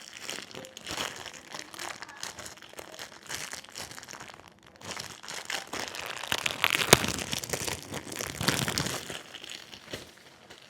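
Plastic bread bag crinkling and rustling as it is opened and pre-sliced French bread is handled, louder in the middle stretch with one sharp crackle about seven seconds in.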